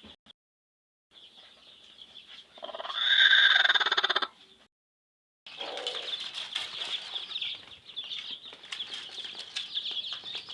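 Chicks peeping together in a steady high chorus, cut off twice briefly. About three seconds in, a louder, lower call sounds over them for about a second and a half.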